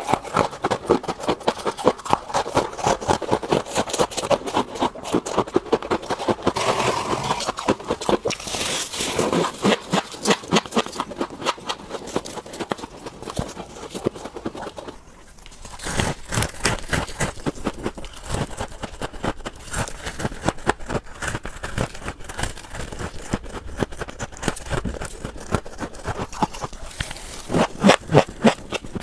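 Close-miked crunching of scraped freezer frost being bitten and chewed: a rapid, uneven stream of crackling crunches, with a brief pause about halfway through.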